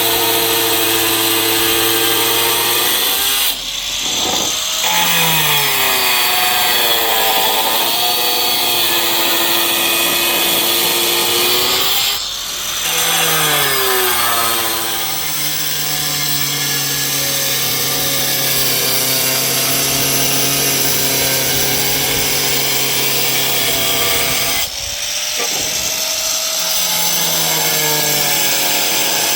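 An electric power tool running continuously under load, its whine sagging and recovering in pitch. It eases off three times, briefly, a few seconds in, near the middle and near the end.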